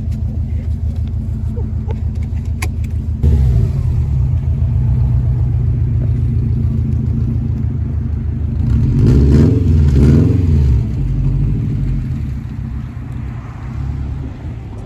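Car engine running with a steady low drone. It gets louder about three seconds in, and past the middle the revs rise and fall twice.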